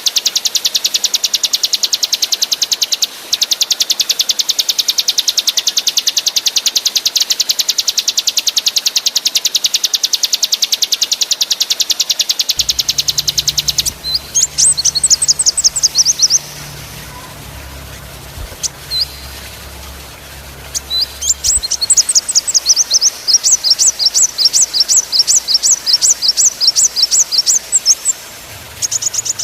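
Small songbirds singing in a masteran (training song) recording. First comes a very rapid, dense high trill for about fourteen seconds. Then short runs of quick, sharp, falling notes follow, with a pause in the middle and another fast trill near the end.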